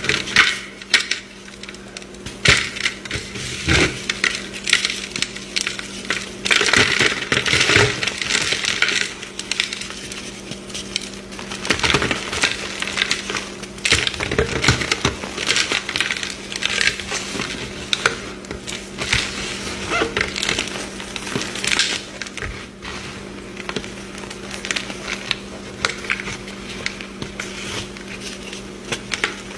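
A large bundt-shaped block of chalk being crushed, with irregular crunching and cracking throughout and thicker runs of crumbling crunch at times, over a faint steady low hum.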